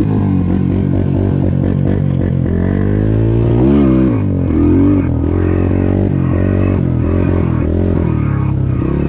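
Highper 150 pit bike's single-cylinder engine running and being revved up and down several times, with rising and falling pitch, then holding a steady note near the end.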